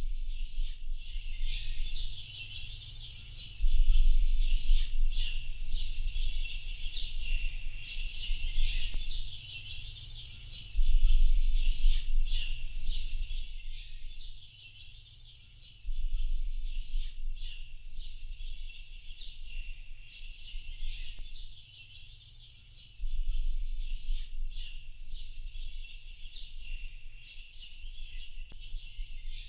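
A dense chorus of small birds chirping and twittering, many quick high notes overlapping. A low rumble comes and goes underneath in stretches of several seconds.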